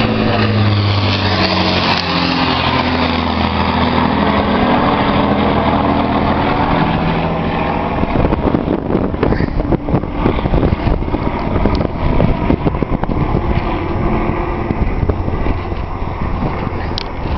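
Avro Lancaster bomber's four Rolls-Royce Merlin engines droning as it flies past, the deep engine note slowly shifting in pitch. After about eight seconds the drone is buried under gusty wind buffeting on the microphone.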